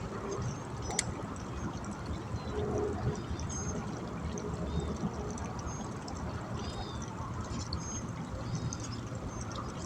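Steady rush of moving water at a fishing bank, with scattered faint high chirps throughout and a single sharp click about a second in.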